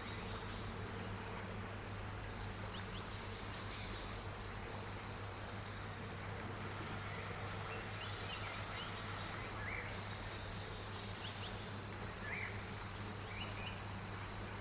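Forest insects (crickets or cicadas) keep up a steady high drone, with a short call repeating every second or two and a few faint bird chirps over it.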